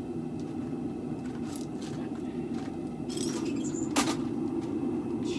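A steady low mechanical hum, with a few light clinks and one sharp metallic clank about four seconds in.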